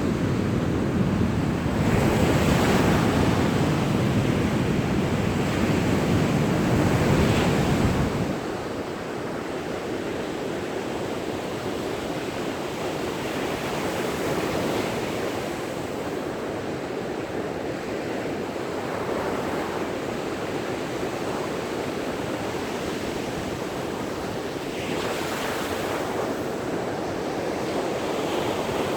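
Sea surf breaking and washing up a beach in surging swells, with a low wind rumble on the microphone that drops away sharply about eight seconds in.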